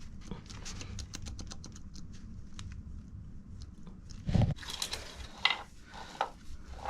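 Metal engine parts and tools being handled on a motorcycle engine under teardown: a run of small, irregular metallic clicks, then a few louder knocks about four seconds in.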